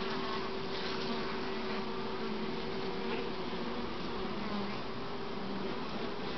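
Honey bees buzzing steadily around an open hive, a continuous drone of many bees with individual bees flying close past now and then.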